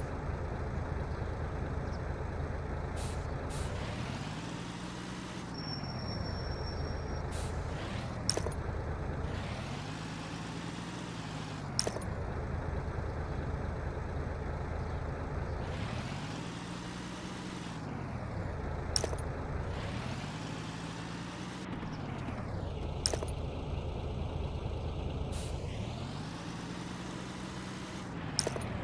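A heavy vehicle's engine running, its pitch rising and falling in a slow swell about every six seconds as if revving up and easing off. Short sharp hiss-like clicks come every few seconds.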